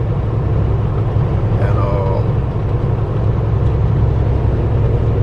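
Steady low drone of a Kenworth T660 semi-truck's diesel engine and road noise heard inside the cab while driving.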